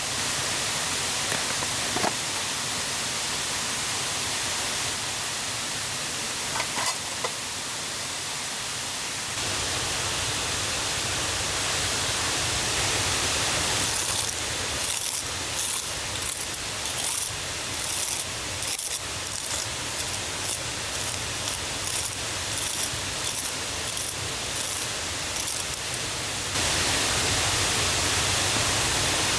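Rushing river and waterfall, running high after rain, a steady dense rush of water. In the middle a run of short rhythmic strokes, about one and a half to two a second, sounds over it.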